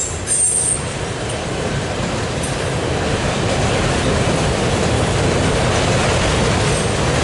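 Autorack cars of a passing freight train rolling by: a steady, loud rumble of steel wheels on rail, with a brief high wheel squeal about half a second in.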